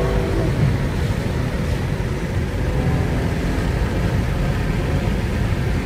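BMW M340i's turbocharged 3.0-litre straight-six heard from inside the cabin: a rising engine note from acceleration fades out just after the start, then the car cruises with a steady engine and road rumble.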